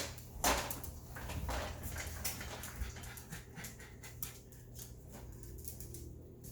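A dog panting, in short breathy puffs that grow fainter and sparser toward the end.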